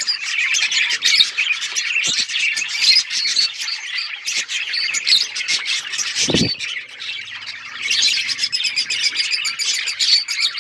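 A group of budgerigars chattering and warbling with a dense stream of rapid chirps. A brief low thump comes about six seconds in; the chatter eases for a moment after it and picks up again near eight seconds.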